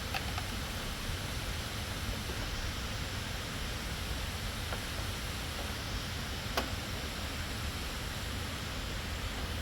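Steady, even noise like hiss or wind, with a few light ticks and one sharper click about two-thirds of the way through.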